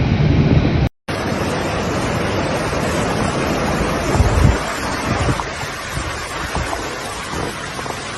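Storm waves surging and breaking in strong wind, with wind buffeting the microphone and a few heavy low thuds about four seconds in. The sound drops out for an instant about a second in, at a cut between clips.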